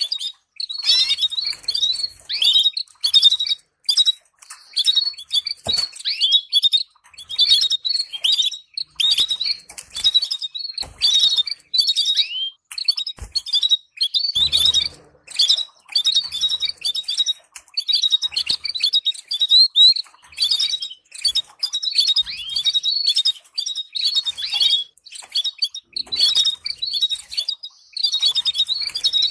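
Canary singing: fast chirps and trills, high-pitched, in phrases broken by short pauses.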